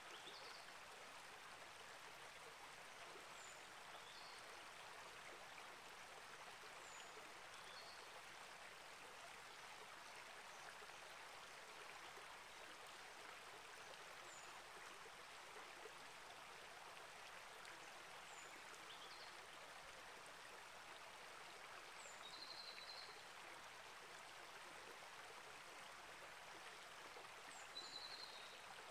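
Small rainforest creek flowing steadily, a faint, even rush of water. Brief high bird chirps come every few seconds over it, a little louder near the end.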